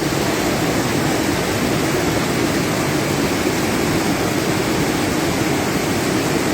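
Floodwater rushing steadily over and past a bridge, a loud even roar of fast-moving water.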